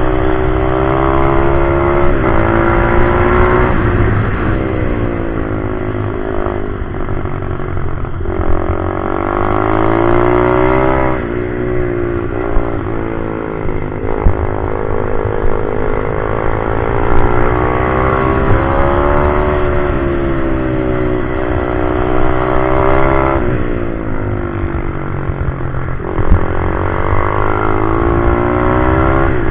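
Pit bike's single-cylinder four-stroke engine under hard riding: it revs up and drops back again and again, with sudden falls in pitch at shifts and when backing off, over a low rumble.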